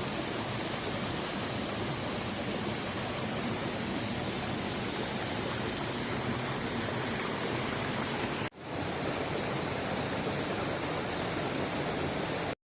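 Waterfall, falling water rushing in a steady, even noise. It drops out for a moment about two-thirds of the way through and cuts off suddenly just before the end.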